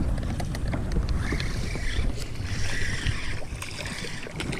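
Strong wind buffeting the microphone on a small skiff, an uneven low rumble, with small knocks and splashes of water against the hull.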